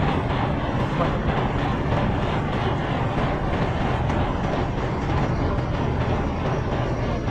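A boat's engine running steadily, a continuous low rumble.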